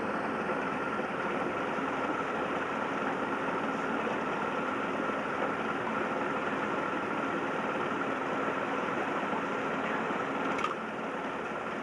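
A boat's outboard motor running steadily, with a short click and a slight drop in level near the end.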